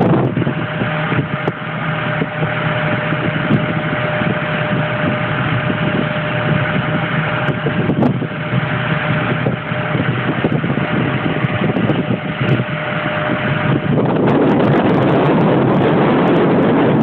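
Motorboat engine running under heavy wind noise on the microphone; a steady whine in it stops about three-quarters of the way through, and the noise grows slightly louder and evener.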